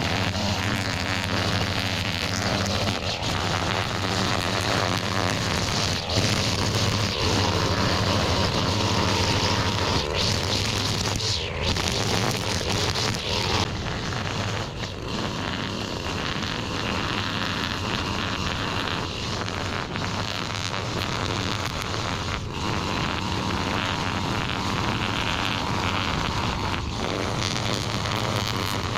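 Small gasoline engine of a yard tool running steadily, cutting through overgrown weeds.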